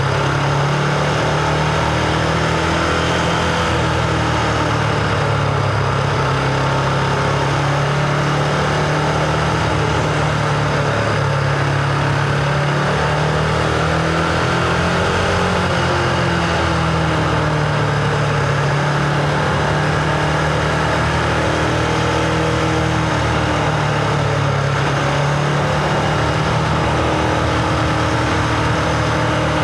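Husqvarna Vitpilen 701's single-cylinder engine running while riding. It holds a fairly steady note, with its pitch easing down and back up a few times.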